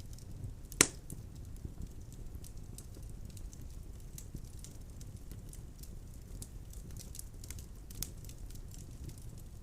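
Wood fire burning in a fireplace: a steady low rush of flame with frequent small crackles of the burning logs. A loud sharp pop comes about a second in, and a smaller one near the end.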